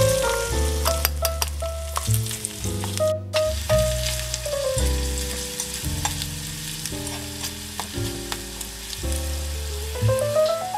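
Diced vegetables sizzling in a small steel pan while a tiny metal spatula stirs them, with small clicks and scrapes. Background music of stepped notes and rising runs plays over it.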